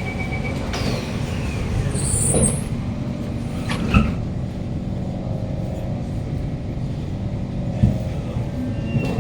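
Kawasaki C151 metro train: a steady low rumble with faint held tones, a faint falling whine about a second in, and a few short knocks, one about four seconds in and another near the end.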